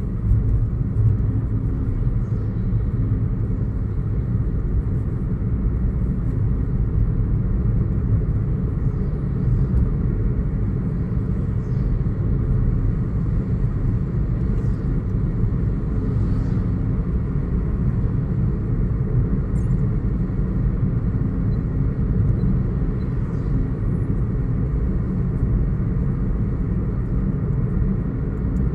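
A car driving, giving a steady low rumble of engine and road noise.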